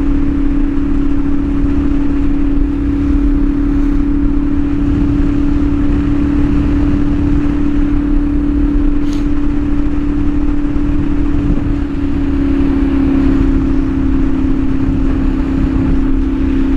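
CFMOTO 450SS parallel-twin engine running at a steady engine speed through an aftermarket slip-on exhaust, with a constant low drone and a dense low rumble underneath.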